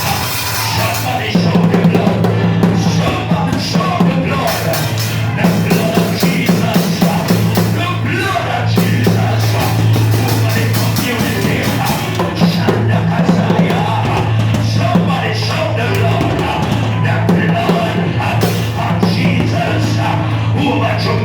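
Band music with a drum kit and a loud, sustained bass line.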